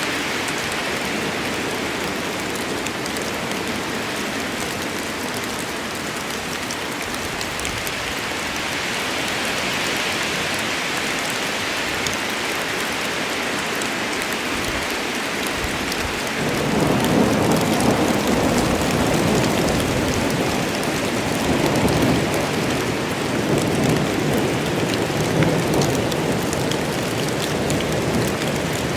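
Steady rain of a rain storm, with a low rolling rumble of thunder that starts a little past halfway and swells on and off until the end.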